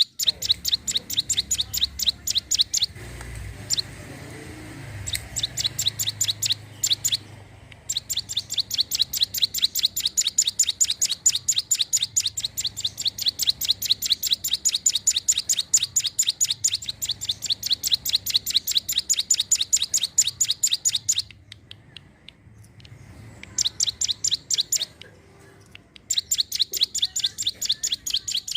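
Hill prinia (ciblek gunung) singing in long runs of rapid, sharp, high chirps, several a second, with brief pauses between runs.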